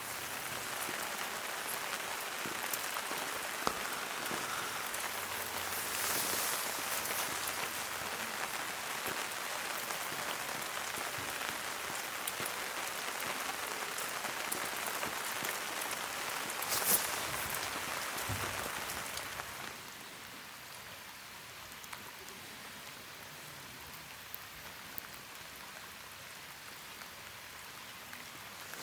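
Rain falling steadily, with individual drops ticking on surfaces; it is heavier at first and eases noticeably about two-thirds of the way through.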